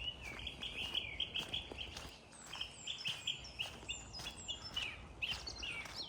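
Small songbirds singing in the woodland, a rapid run of short, high repeated notes with some higher chirps over them, and faint regular ticks from footsteps on the path.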